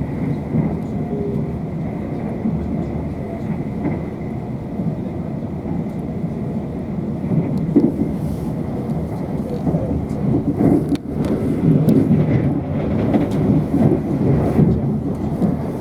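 Steady running noise inside a Class 444 electric multiple unit travelling at speed: wheels rumbling on the rails, louder in the second half, with a sharp click about eleven seconds in.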